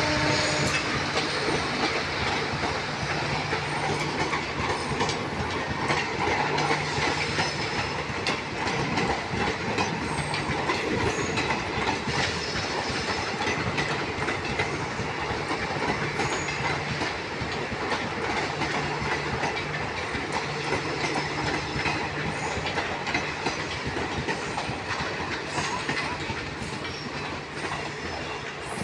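Train cars passing, wheels clattering steadily over the rail joints, slowly fading toward the end.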